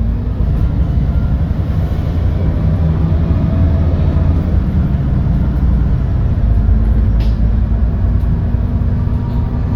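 GX12P natural-gas engine of an Edison Motors Smart 110G city bus running under way, heard from inside the bus as a steady low drone.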